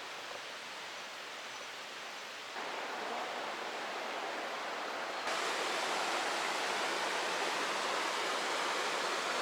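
Mountain stream rushing over rocks, a steady wash of water that jumps louder abruptly twice, about two and a half and five seconds in.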